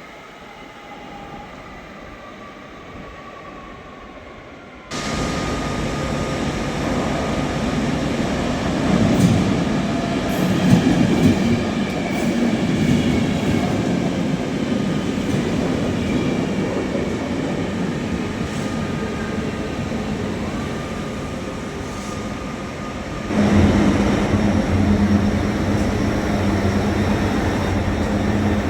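Electric passenger trains running through a station: a whine that falls in pitch, then the loud rumble of wheels and running gear with steady motor tones. The sound changes abruptly twice, about five seconds in and again near the end.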